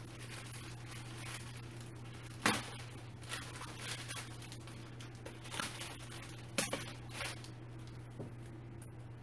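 Plastic packaging bag rustling and crinkling in short bursts as a chair part is pulled out of it, with two sharp knocks of the part or tools about four seconds apart.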